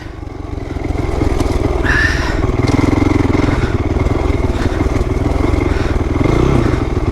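2008 Honda CRF450R's single-cylinder four-stroke engine running as the dirt bike is ridden, getting louder over the first second as the throttle opens.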